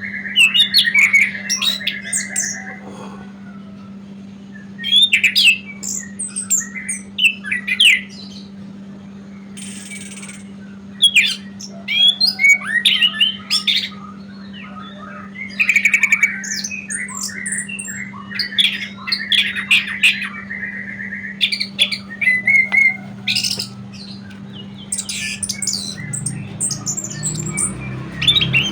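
Terasan bird calling in bursts of rapid, scratchy chirps and squawks, phrases coming every few seconds, over a steady low hum.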